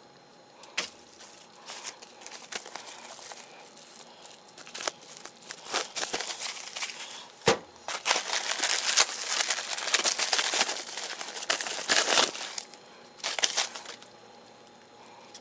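Crinkling and rustling handling noise, like packaging or wrapping being worked by hand, with scattered sharp clicks. It is loudest and densest from about six to twelve seconds in.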